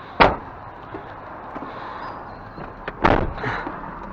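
A sharp knock about a quarter second in, then a click and a louder clattering thump around three seconds in, over a steady background noise.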